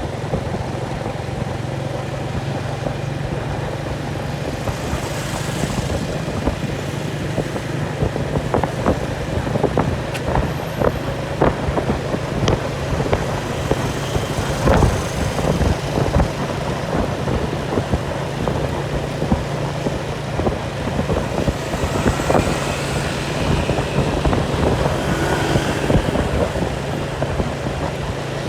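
An engine running steadily with a constant low hum, with many irregular clicks and knocks over it, thickest in the middle stretch.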